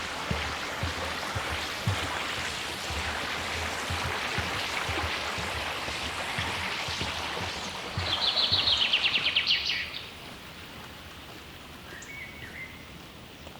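Steady rush of flowing river water with soft footfalls on a forest trail. About eight seconds in, a bird sings a loud, rapid trill for about two seconds, the loudest sound here; the water noise drops away after it, and a short faint bird call follows near the end.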